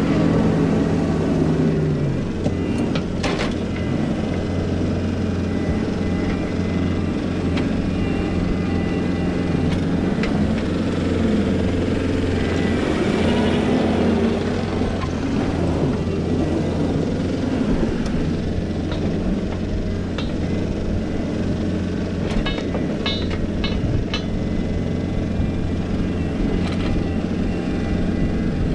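John Deere 333E skid loader's diesel engine running steadily under load while pushing dirt, its pitch wavering up and down. There are a few short knocks now and then.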